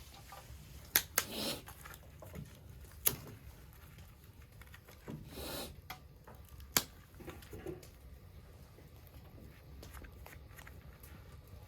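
A small twig fire in a compact secondary-combustion stove crackling, with four sharp pops and two short hissing rustles.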